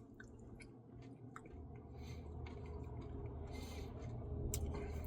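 Faint, close-up eating sounds from a Reese's Pieces cookie dough Blizzard being chewed: scattered small mouth clicks and a few soft wet smacks.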